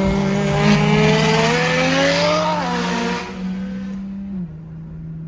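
Turbocharged Supra engine pulling hard, its note rising steadily under a loud rushing turbo hiss, then dropping away about three seconds in as the throttle comes off. A lower steady drone runs underneath.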